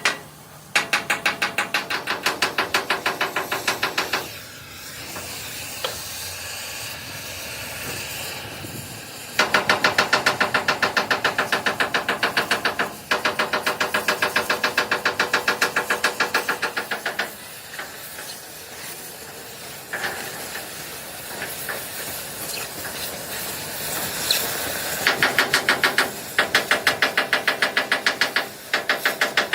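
Bursts of rapid machine hammering on steel, about eight blows a second, each run lasting a few seconds. A steady hiss fills the pauses between runs.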